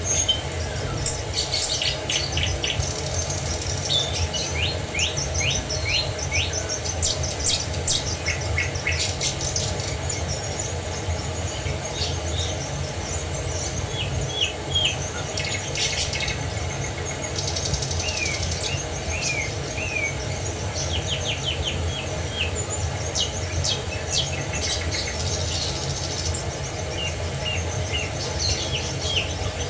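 Several songbirds chirping and singing in short calls and quick trills over the steady low rush of a waterfall.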